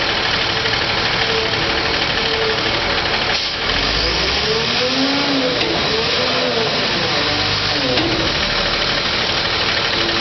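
Recycling truck's engine running steadily. Between about four and eight seconds in, a whine rises and falls in pitch over the engine noise.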